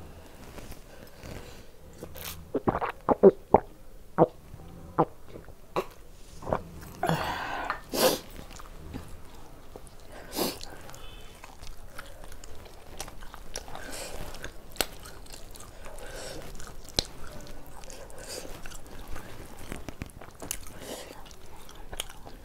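Close-up sounds of a person eating mutton curry and tandoori roti by hand: chewing and mouth smacks. A run of loud, sharp clicks falls in the first several seconds, then steadier, softer chewing follows.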